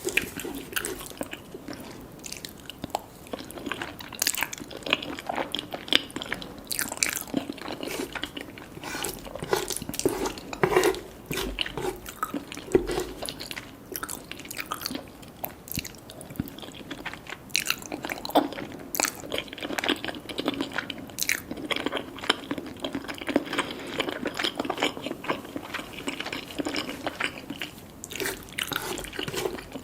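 Close-miked eating: crunchy bites and chewing of crispy fried chicken, with irregular sharp crackles and wet mouth clicks.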